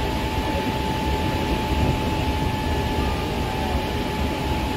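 Hankyu Kyo-train Garaku train running along the line, heard from inside the front of the carriage: a steady low rumble of wheels on rail with a thin, steady whine above it.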